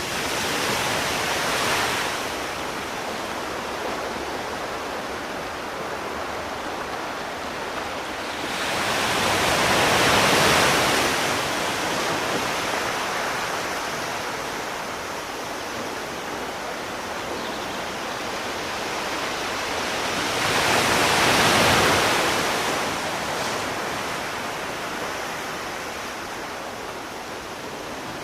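Ocean waves washing in, a steady rush of surf that swells into a louder wave about ten seconds in and again about twenty-one seconds in, then dies back.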